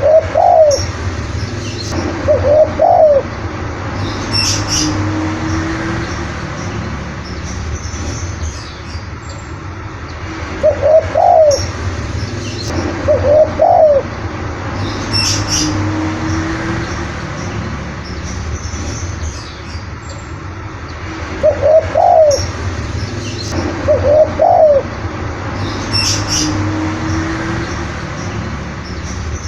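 Spotted dove (tekukur) cooing. Two loud coos are followed by a longer, lower coo, and the phrase repeats about every eleven seconds, three times, with faint high chirps near the end of each phrase and a steady low hum underneath.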